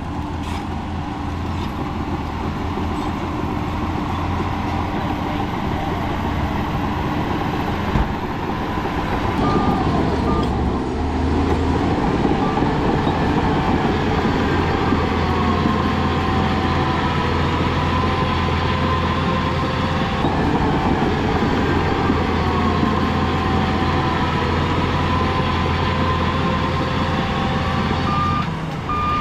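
Heavy diesel earthmoving machinery running steadily, getting louder about ten seconds in, with a reversing alarm beeping. A single sharp knock comes about eight seconds in.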